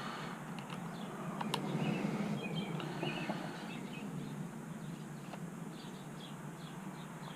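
Faint bird chirps over steady low background noise, with a few light clicks of small parts being handled.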